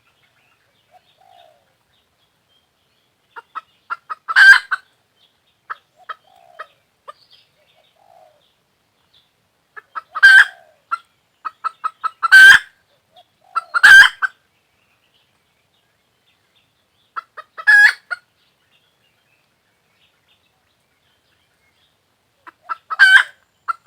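A hen cackling in bouts. Each bout is a run of quick clucks that ends in a loud, harsh squawk, and the bouts come about six times with quiet gaps between them.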